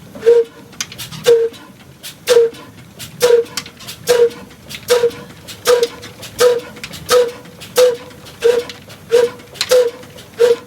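Old desi single-cylinder diesel oil engine running at slow speed, each firing a loud, separate exhaust beat with a ringing tone. The beats quicken from about one a second to about one and a half a second as the engine picks up speed after starting.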